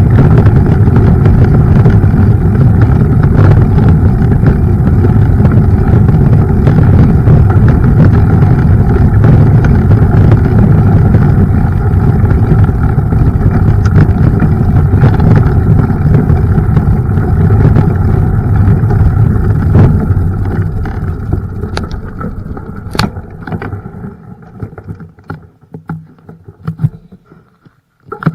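Heavy rumble of wind on the microphone and tyres rolling over the trail, heard while riding a mountain bike. It dies away over the last several seconds, leaving a few faint clicks.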